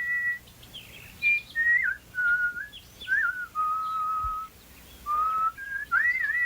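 A whistled bird-song melody: one clear, pure note line that slides up and down, warbles and holds some notes steady, in short phrases with brief pauses between them.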